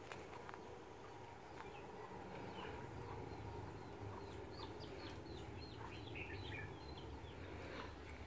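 Small birds chirping: a run of short, high calls, busiest in the middle of the stretch, over a faint low outdoor rumble.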